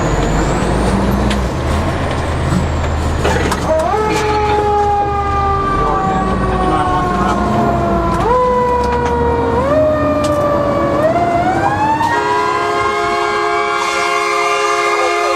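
Fire engine under way with its engine running, then its siren sounding from about four seconds in: several quick rises in pitch, each sagging slowly, before it climbs to a steady held tone near the end.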